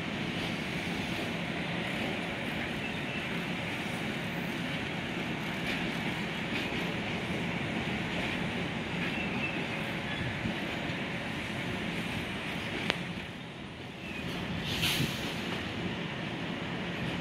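Long Island Rail Road electric commuter train rolling steadily across a low bridge: a continuous rumble of wheels on rails. About 13 seconds in there is a single sharp click, and a brief higher-pitched burst a couple of seconds later.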